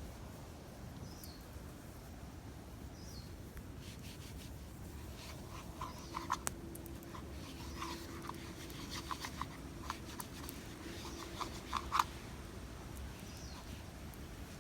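A bird repeats a short, high, falling call every second or two. In the middle comes a run of sharp crackles and snaps, the loudest about six and twelve seconds in.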